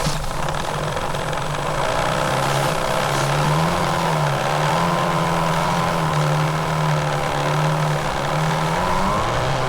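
3D-printed RC snowmobile's drive motor and track, heard from a camera riding on the sled: a steady whine whose pitch rises and falls with the throttle, climbing just before the end and then dropping.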